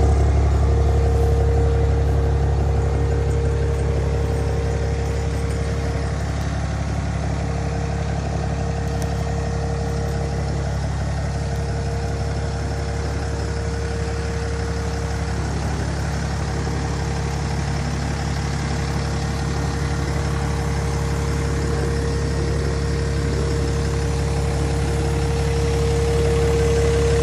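Cummins straight-six turbo diesel of a 2008 Ram 2500 idling steadily, a constant hum with a steady whine on top, growing a little louder near the end.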